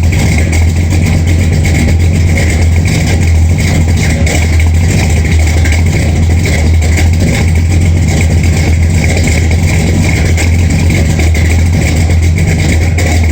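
Ford 429 big-block V8 with Edelbrock intake and Edelbrock Performer RPM cam idling steadily as it warms up after a cold start.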